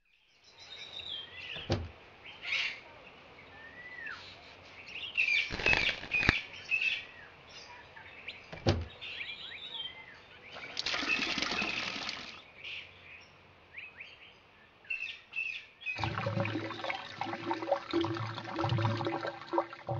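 Birds chirping, with short calls that glide up and down, broken by several brief rushes of noise, the longest lasting about a second just past the middle. For the last four seconds a denser, busier sound with a low steady hum takes over.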